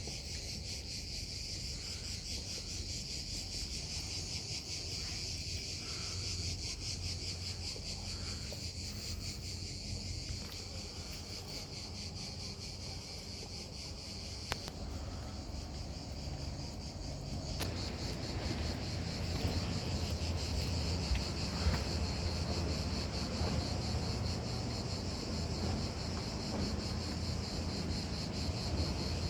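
Steady high-pitched chorus of insects with a very fast pulsing buzz, over a low rumble that grows a little louder past the middle.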